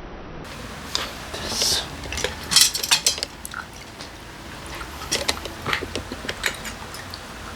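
Small metal carburetor parts and hand tools clinking and tapping against each other and a work surface, in a scatter of light, irregular clicks.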